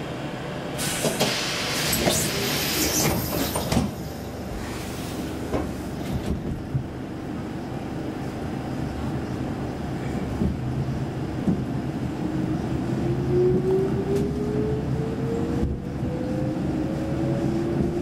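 Saltsjöbanan C10/C11 electric commuter train pulling out of a station. A hiss lasts a few seconds and ends in a knock about four seconds in as the doors shut. Then the carriage rumbles as it gets under way, and the motor whine rises steadily in pitch over the last several seconds as it gathers speed.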